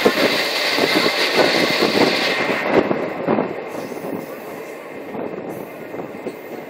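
Train running, heard from inside a carriage: a steady rumbling noise with many short clatters of the wheels on the track, getting quieter about three seconds in.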